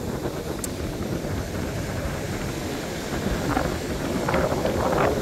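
Wind buffeting the microphone, a steady low rumble, with rough surf beneath it.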